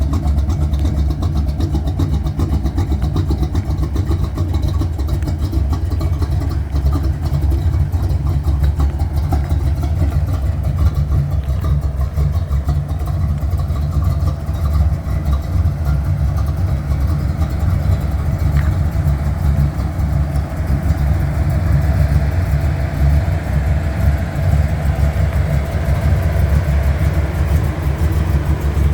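Pickup truck engine running steadily with a strong low hum, the 1970 Chevrolet C10's engine.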